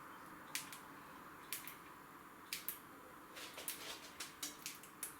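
Irregular light clicks and taps over a faint steady hiss: spaced about a second apart at first, then several in quick succession in the second half.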